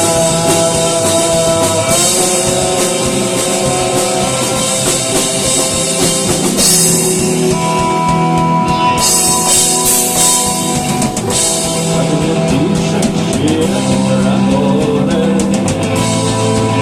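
Rock music: a band with drum kit and guitar playing an instrumental passage, with no singing.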